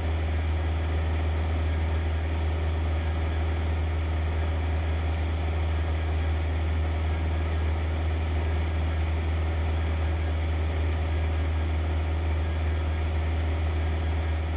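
Cessna 152's four-cylinder Lycoming engine and propeller droning steadily in flight, heard from inside the cockpit.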